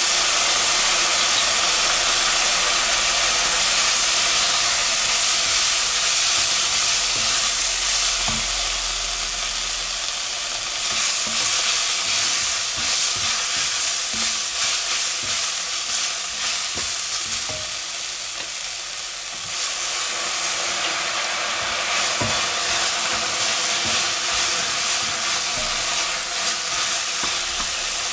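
Diced vegetables, onion and tomato paste sizzling steadily in an enamelled cast-iron cocotte, just deglazed with a splash of red wine, while a wooden spatula stirs and scrapes through them.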